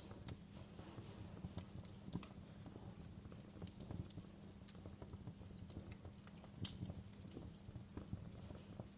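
Wood fire crackling in a fireplace: irregular sharp pops and snaps over a low steady rumble, with a few louder pops about two seconds in and near seven seconds.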